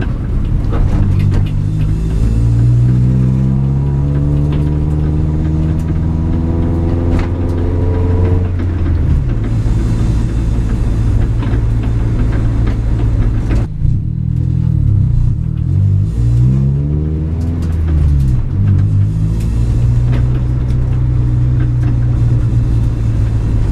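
Honda Civic's engine and aftermarket exhaust under way, the pitch rising steadily for several seconds, dropping about nine seconds in, then holding steady with a stretch of rising and falling revs. The exhaust rattle, which the owner thinks is probably a gasket by the test pipe leaking again, is still there.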